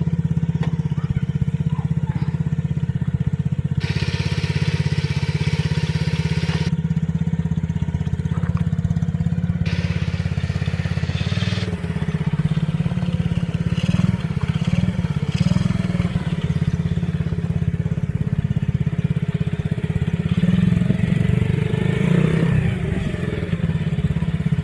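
Coolster gas dirt bike engine running steadily in first gear, its hum rising and falling a little with the throttle. Two stretches of hiss, each two to three seconds long, come over it early and in the middle.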